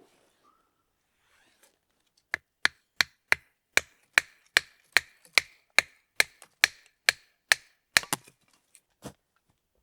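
Wood being chopped with a quick run of some fifteen light, evenly spaced blows, about two or three a second, starting about two seconds in and stopping near the end, followed by one softer knock.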